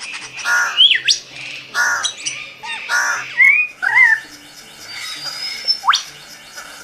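Birds calling: harsh squawks about every second and a quarter, then whistled glides and a high thin whistle, with a sharp rising whistle near the end.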